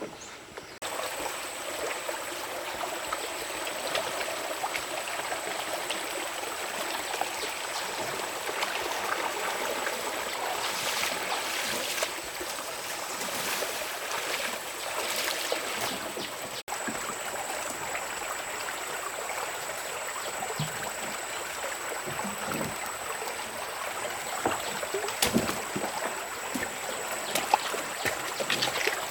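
Steady running water with an even rush, and a thin steady high tone above it; it starts abruptly about a second in.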